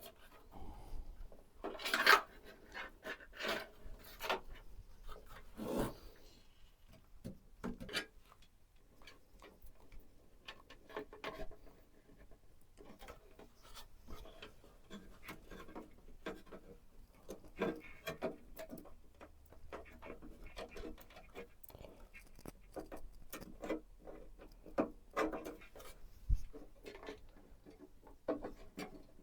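Hands handling PC-build parts: scattered light clicks, taps and rubbing, with a louder clack about two seconds in and a sharp knock near the end.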